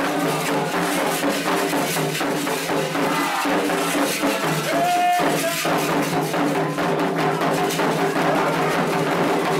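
Candomblé ritual music: atabaque hand drums beating fast with rattling percussion, over steady sustained singing, with a brief higher held note about halfway through.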